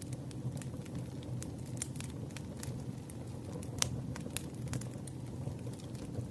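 Campfire crackling: burning wood pops and snaps irregularly over a steady low rumble, with one sharper pop a little after the middle.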